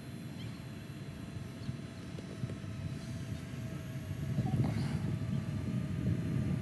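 Parrot Anafi quadcopter in flight, its propellers giving a faint steady whine over a low rumble of wind on the microphone.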